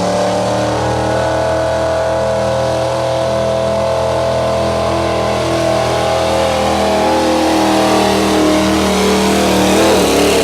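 1965 Ford F-250 pickup's engine running hard at high revs during a truck pull, holding a steady pitch under load, then the revs drop near the end as the pull ends.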